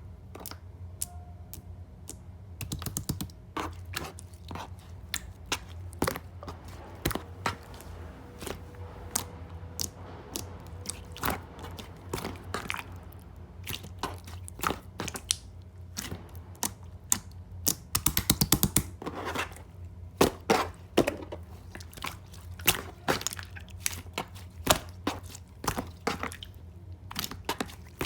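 Hands squishing and poking clear slime: a running series of sticky clicks and wet pops, irregular, with a quick burst of rapid clicks about two-thirds of the way through.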